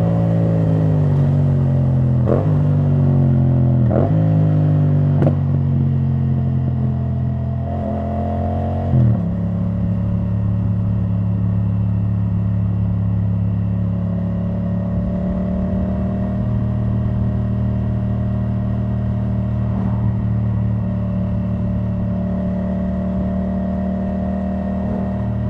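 2017 Yamaha MT-07's parallel-twin engine through an open Akrapovic titanium exhaust with the dB killer out. Its revs fall with a few short blips as the bike slows, then from about nine seconds in it settles into a steady idle.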